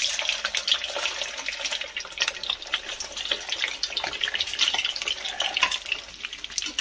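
Soya chaap pieces shallow-frying in hot oil in a kadhai: a steady sizzle crackling with many small pops.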